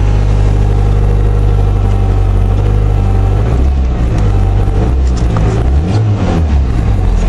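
Ford Ranger pickup engine running just after a cold start in freezing weather, unhappy with the cold. It holds steady for about three seconds, then is revved a few times, its pitch rising and falling.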